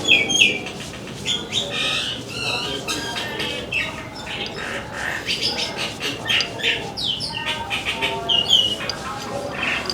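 Birds chirping and squawking, with many short, sweeping calls repeating throughout.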